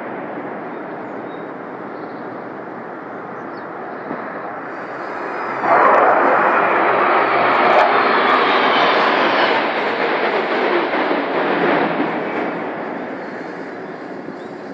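Military jet aircraft flying over: steady rushing jet noise that swells suddenly about six seconds in, stays loud for several seconds, then fades away.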